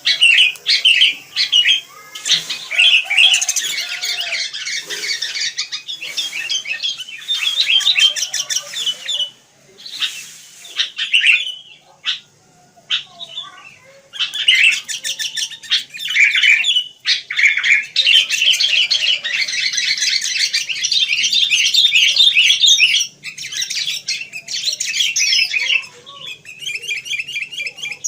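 Sooty-headed bulbuls (kutilang) chirping and chattering busily in quick overlapping runs, with a few short pauses.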